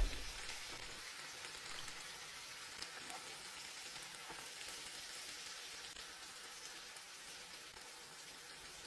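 Faint steady sizzle of a waffle, sausages and baked beans frying in oil in a skillet.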